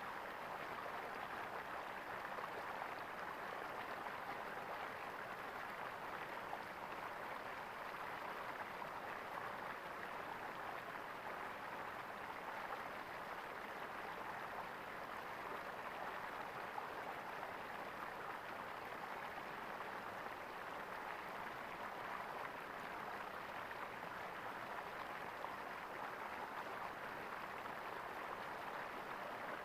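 Flowing water gurgling steadily, an even rushing with no breaks.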